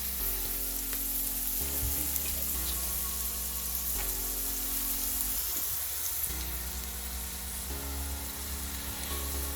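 Chopped red onions sizzling as they fry in oil in a pan, a steady hiss throughout. Soft background music chords sit underneath.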